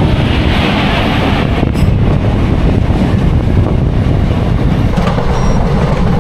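Passenger train running on the rails: a loud, steady rumble of wheels on track, with a brighter hiss during the first second or so.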